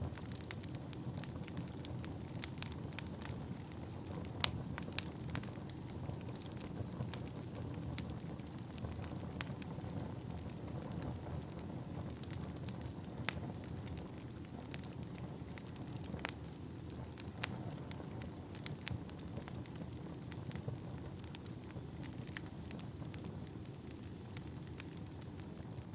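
Wood fire burning in a fireplace: a steady low rumble of flames with irregular sharp crackles and pops, the loudest about four and a half seconds in. Near the end a faint high whistle slowly falls in pitch.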